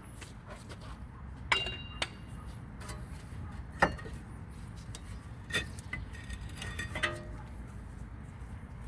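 Metal brake parts and hand tools clinking and knocking: a handful of sharp clinks spread through the few seconds, some with a brief ringing tone. The loudest come about one and a half seconds in and near four seconds in.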